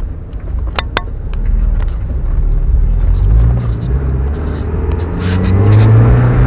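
Mazda Miata's four-cylinder engine pulling the car away, its pitch rising as it speeds up, heard from inside the open-top car over a low rumble of road and wind. Two sharp clicks about a second in.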